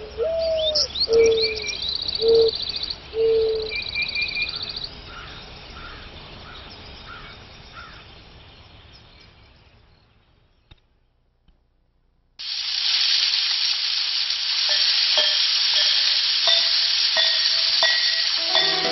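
Outdoor birdsong with chirps, fast trills and low whistled notes, fading out about halfway through. After a short silence, a steady hiss with faint tones in it starts abruptly.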